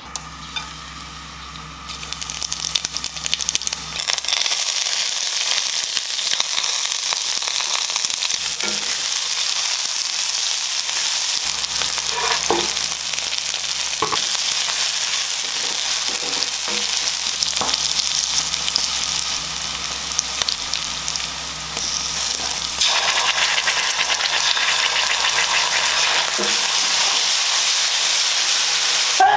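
Chopped onion, garlic and green chili frying in hot mustard oil in a pan, sizzling steadily from about two seconds in, while a wooden spatula stirs and scrapes them, with a few light taps on the pan.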